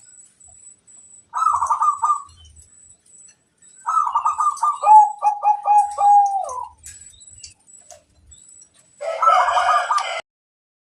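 Zebra dove (perkutut) cooing in three phrases of rapid, trilling coos. The middle phrase ends in a run of lower, drawn-out notes, and the last, harsher phrase cuts off suddenly.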